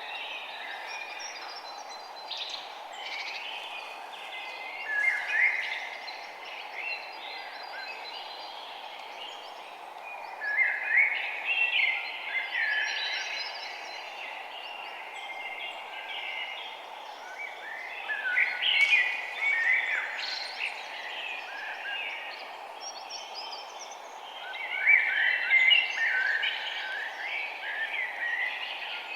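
Several small birds chirping and trilling in quick, overlapping phrases, with louder flurries about five, eleven, nineteen and twenty-five seconds in, over a steady low background hiss.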